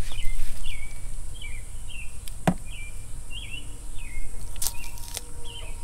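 A bird calling over and over in short chirping notes, over a steady low rumble, with a sharp click about two and a half seconds in and two more near the end.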